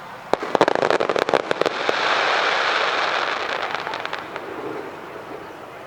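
Fireworks going off: a rapid string of sharp bangs and crackles lasting about a second and a half, then a broad rushing hiss that swells and fades away over the next few seconds.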